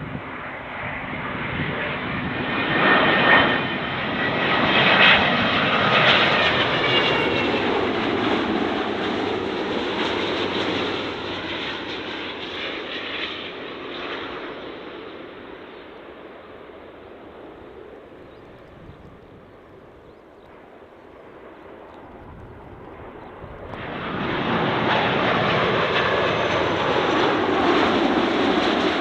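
Jet airliner on short final passing close overhead: engine noise swells with a whine, then fades away as it goes. Near the end, another jet's engine noise comes in suddenly and holds steady.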